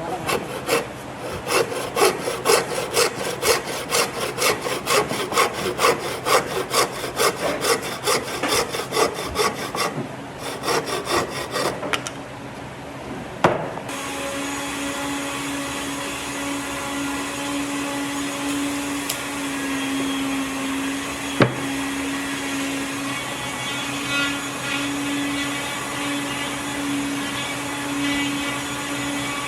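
A hand tool worked back and forth over wood in even strokes, about three a second, for around twelve seconds. After a short pause, a power tool's motor starts and runs steadily for the rest of the time.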